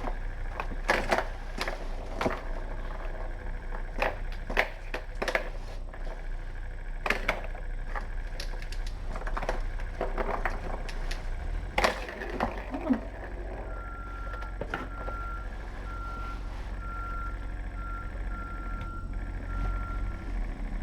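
Irregular clicks, knocks and clattering of a cat toy being batted about by kittens. About two-thirds in, a row of short, evenly spaced high beeps begins, under a steady low hum.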